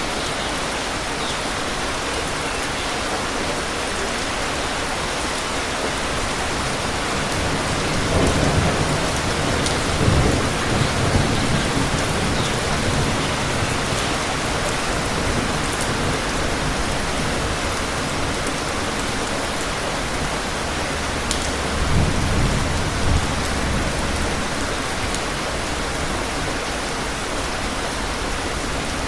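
Steady, heavy rain falling, with low rumbles of thunder about eight seconds in and again past twenty seconds.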